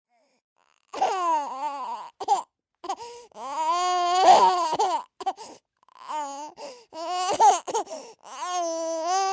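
A young child crying: silent for about the first second, then a string of high-pitched, wavering wails with short gasping breaks, several held for a second or more.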